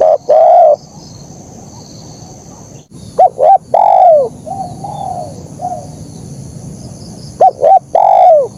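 Spotted dove (terkukur) cooing. Its phrases are two quick short notes followed by a longer, falling coo, given twice, with softer coos between. A steady high-pitched buzz runs underneath.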